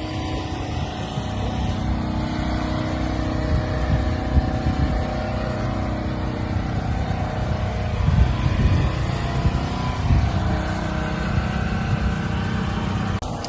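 Car engines running with a steady low rumble, swelling louder a few times, about four and eight seconds in.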